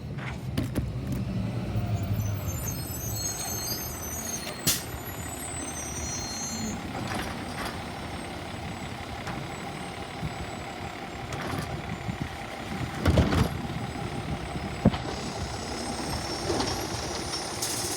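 Yard waste garbage truck running while stopped at the curb for a pickup, its engine rumbling steadily. There are sharp knocks about five seconds in and a louder cluster of bangs near the end of the middle.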